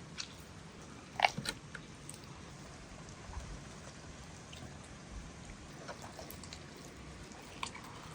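Someone biting into crispy fried chicken: one sharp crunch about a second in, a couple of smaller crunches right after, then a few faint clicks.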